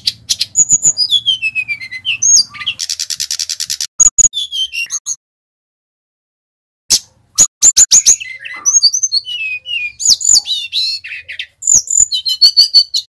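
Sikatan rimba dada coklat (brown-chested jungle flycatcher) singing loud, varied phrases of high whistles sliding down in pitch, with a rapid trill of even notes about three seconds in. The song breaks off for almost two seconds mid-way, then resumes with more sliding whistles and a fast buzzy run near the end.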